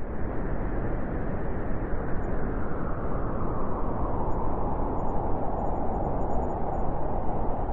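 Howling wind: a steady rushing noise, with a howling band in the middle pitches that grows stronger in the second half.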